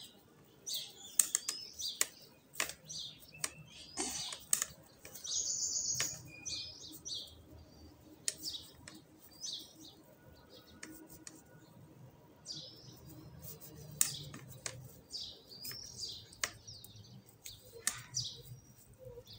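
Small birds chirping repeatedly in short high calls, with scattered light clicks.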